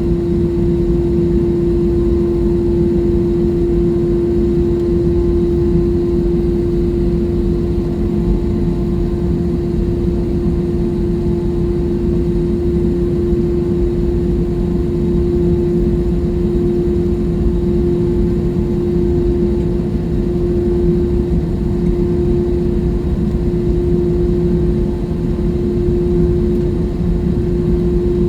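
Airliner jet engines running steadily, heard inside the passenger cabin: a loud, even low rumble with a steady droning tone over it.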